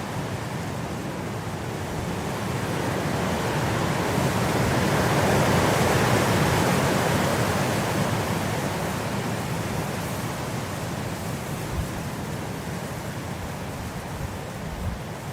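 Blizzard wind blowing as a steady rush that swells into a stronger gust about midway, then eases back.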